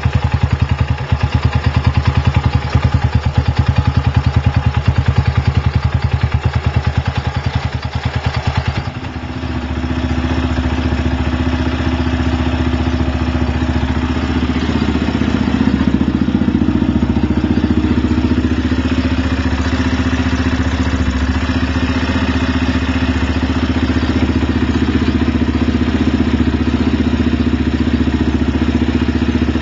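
Lifan LF200-B motorcycle's single-cylinder engine running through its aftermarket Iridium exhaust, first at a pulsing idle. About nine seconds in, the note changes to a smoother, higher-pitched drone at raised revs and holds steady.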